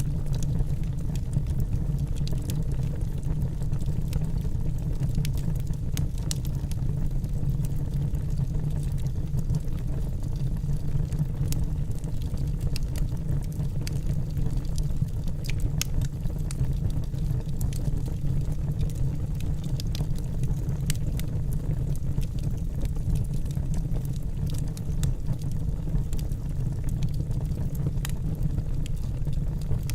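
Wood logs burning in a fireplace: a steady low rumble of the fire with frequent irregular sharp crackles and pops of the wood.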